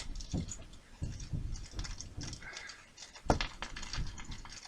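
Small plastic kit parts being picked up and handled on a workbench: irregular light clicks and rustling, with one sharper click about three seconds in.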